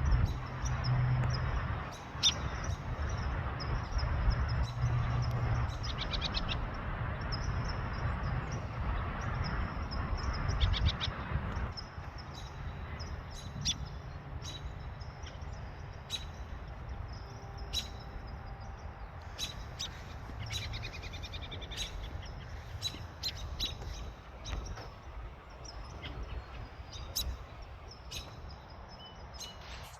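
Birds chirping and calling in short, sharp notes, scattered all through, over a low rumble that eases off about twelve seconds in.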